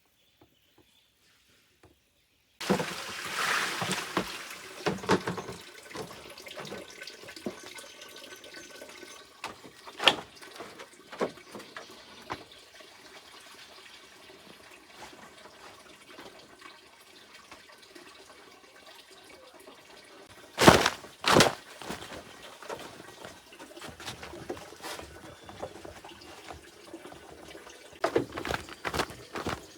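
Water running and splashing, starting suddenly a few seconds in, with a few sharp knocks; the loudest are two close together past the middle.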